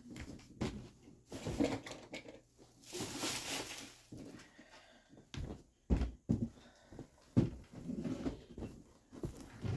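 Objects being handled: irregular knocks and thumps, with a longer rustle about three seconds in.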